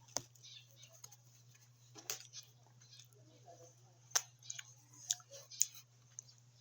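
Eating sounds: a string of sharp clicks and crunches, the loudest about four seconds in, over a faint steady low hum.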